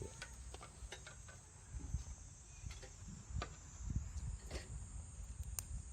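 Sparse crackles and light clicks from a small twig fire just catching in a portable wood stove, over a steady high chirring of insects.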